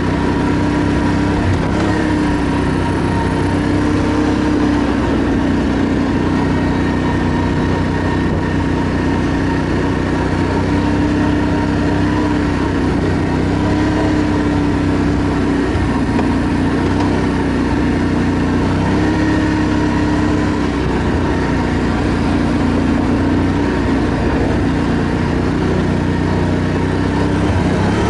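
ATV engine running steadily while riding, its pitch rising and falling slightly, over rough rumbling noise.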